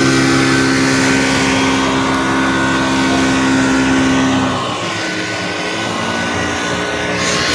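A motor engine running at a steady pitch, which fades off about four and a half seconds in, leaving a fainter hum.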